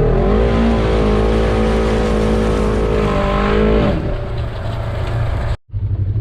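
Vehicle engine running hard at steady high revs for about four seconds, then easing off to a lower rumble. The sound drops out for a moment near the end.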